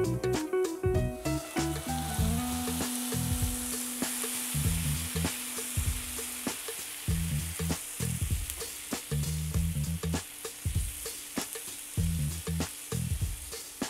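Diced onion and crushed tomato sizzling in oil in a nonstick frying pan, stirred and scraped with a silicone spatula. The sizzle builds about two seconds in, with a faint music bed underneath.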